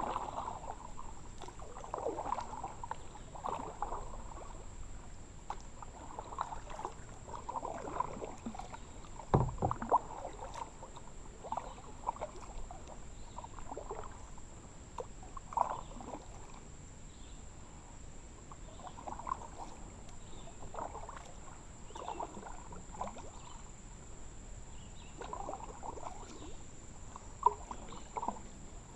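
Kayak paddle strokes: the blades dip and splash in the water, with dripping, roughly every one and a half to two seconds. A single low knock sounds about nine and a half seconds in.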